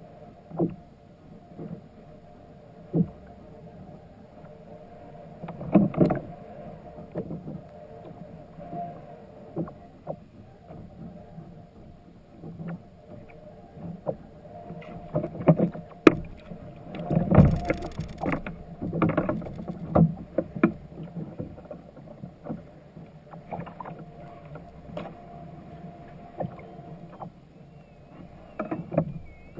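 Sounds aboard a kayak on the water: irregular knocks and splashy thuds against the hull, heaviest in two busy stretches, over a faint steady hum.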